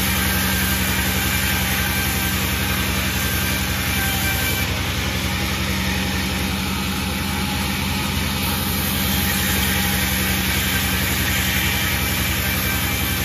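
A panda36 sawmill's engine running steadily at an even speed.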